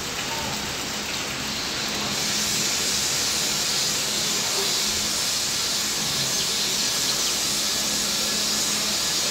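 Steady rain falling on a flooded basketball court and its surroundings, heard as an even, unbroken hiss.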